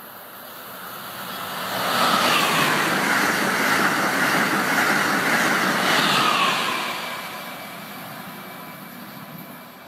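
Amtrak Acela high-speed electric train passing close by at speed: its noise swells over about two seconds, holds loud for about four, then fades as the train goes away.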